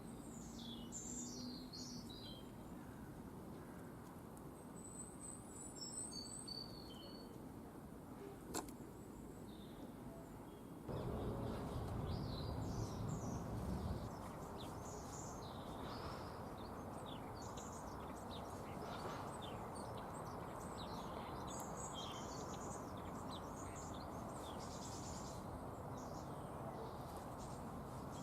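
Small garden birds chirping and twittering in short high calls, over a steady background hum, with a louder low rumble for a few seconds after a sudden change about eleven seconds in.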